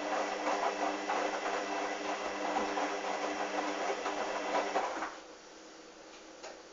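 Hoover washing machine in its wash cycle: the motor hums as the drum turns, churning the wet, sudsy towels, then stops about five seconds in, leaving a quieter steady hum and a couple of light clicks. This is the drum's pause between turns.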